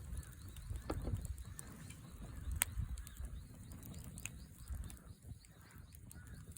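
Wood fire burning in a Coleman Fireplace 3 fire pit: scattered sharp crackles and pops, the loudest about two and a half seconds in, over a low rumble, with a faint high chirp repeating a few times a second.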